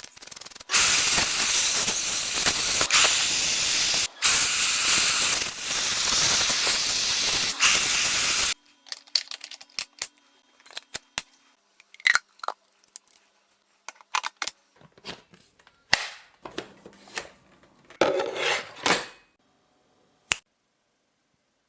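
A loud, steady hiss lasting about eight seconds, broken twice for an instant, then cutting off suddenly. After it come scattered light clicks and knocks and a brief rustle.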